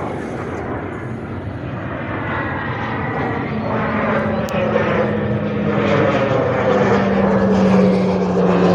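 Pilatus PC-21 turboprop trainer flying in, its engine and propeller drone growing steadily louder. There is a steady low hum, with higher tones above it that slide slowly down in pitch.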